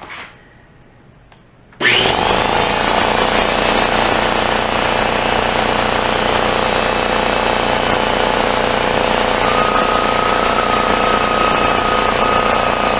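Craftsman 33-gallon air compressor starting abruptly about two seconds in and running loud and steady, on a test run after a leak was tightened. A thin steady whistle joins it about nine seconds in.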